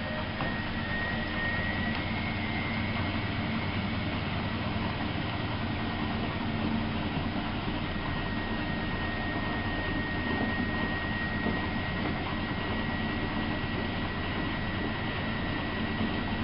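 Miele Novo Super W933 washing machine running: a steady mechanical hum and rumble with a thin high whine held at one pitch.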